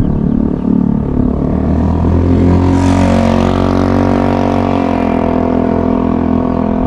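GY6 four-stroke single-cylinder engine in a Honda Ruckus scooter, running and revved: its pitch climbs about two and a half seconds in, holds, and drops back toward idle around five seconds in.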